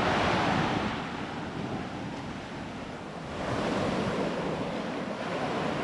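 Sea waves breaking and washing up on a sandy beach: one surge fades after the first second or so, and another swells up a little after three seconds in.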